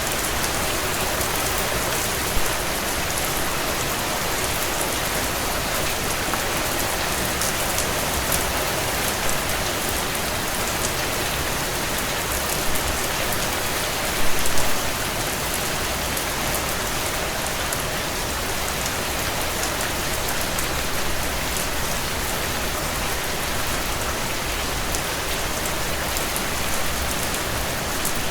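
Heavy rain drumming on a tin roof: a steady dense hiss of drops with fine ticking impacts. A few louder drop hits stand out, the biggest a short cluster about halfway through.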